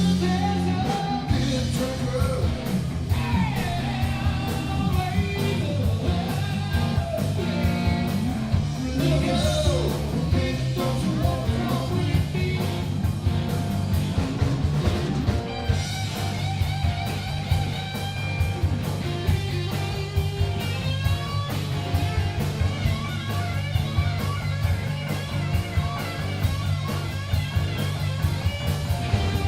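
Southern rock song with singing over electric guitar, bass and a steady drum beat.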